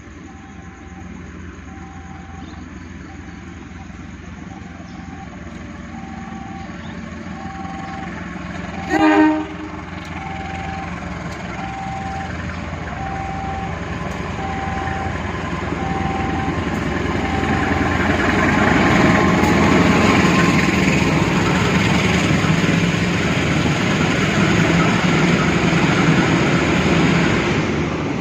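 Level-crossing warning signal repeating a short tone about once a second. A local economy train sounds one short horn blast about nine seconds in, then approaches and passes with steadily growing rail and engine noise. The noise is loudest in the second half and falls away sharply near the end.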